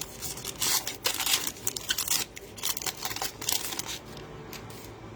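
Trading cards and their packaging being handled: a run of short rustling strokes with a few sharp ticks from about half a second to four seconds in.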